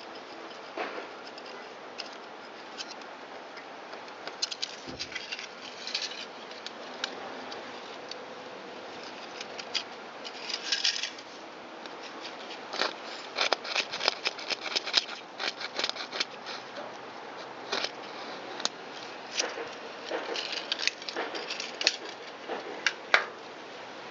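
Small metal carburetor parts and hand tools being handled during carburetor cleaning: scattered light clicks and taps, with a brief hiss about ten seconds in.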